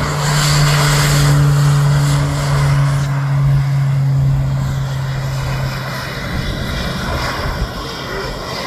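Propeller airplane flying past, its engine drone loud and steady at first, then fading away after about five seconds.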